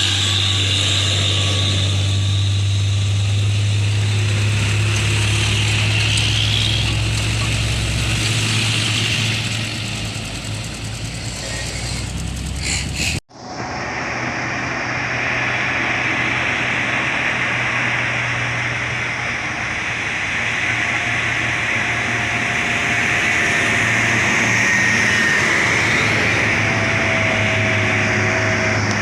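Heavy diesel truck engine running steadily under load as it climbs a steep hill, with road and traffic noise. The sound drops out abruptly for an instant about halfway through, then resumes.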